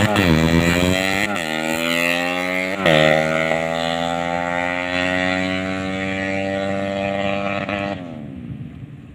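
A 130cc drag-bike engine revving. Its pitch jumps up sharply twice in the first three seconds, then falls slowly and steadily for about five seconds before the sound drops away near the end.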